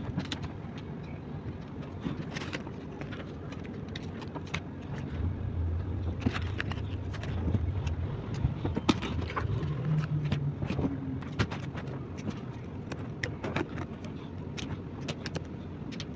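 Hard plastic toy pieces clicking and tapping as they are handled, many sharp clicks at irregular intervals, over a low steady rumble that swells for a few seconds in the middle.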